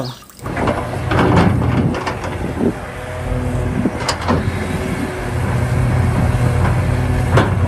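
Hitachi Zaxis 670 hydraulic excavator's diesel engine running steadily under load while its bucket digs into earth, with a few sharp knocks.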